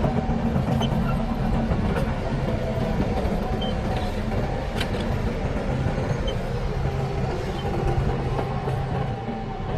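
Shantui DH17C crawler bulldozer's diesel engine running steadily under load, with light metallic clicks and clanks from its tracks.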